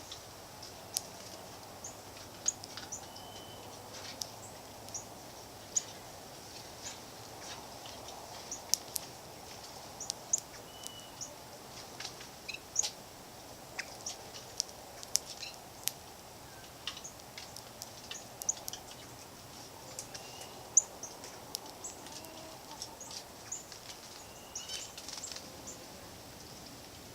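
Small songbirds at a backyard feeder giving short, high chip notes, about one every second or so, with sharp clicks mixed in, over a steady low background noise.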